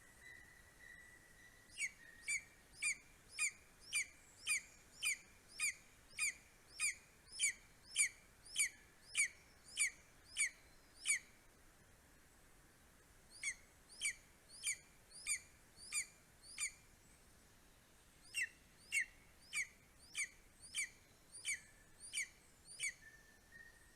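A bird calling in repeated sharp, down-slurred notes, about two a second, in three bouts with short pauses between. A thin steady whistle is heard before the calls start and again near the end.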